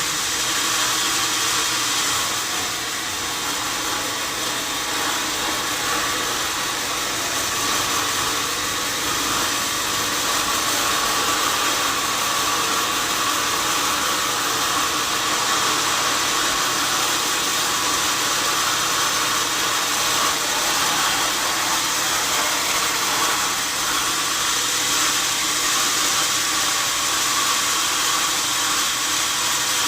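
Sawmill saw running steadily through a wadang log, a continuous high hiss and whine without a break.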